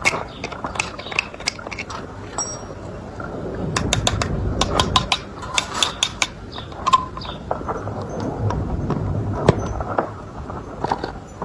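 Irregular sharp metallic clicks and clinks during cattle hoof trimming, coming in quick clusters about four to five seconds in and again near the end, over a low steady background rumble.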